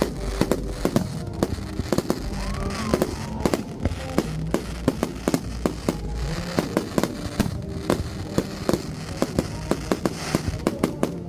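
Aerial fireworks bursting overhead in a fast, irregular run of sharp bangs and crackles, several a second, with music faintly underneath.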